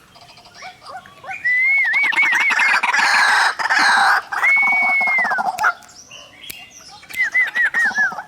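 White-breasted waterhens calling in two bouts: dense, harsh, pulsed croaking with runs of quick looping whistled notes and one long held whistle that drops at its end. There is a brief lull between the bouts.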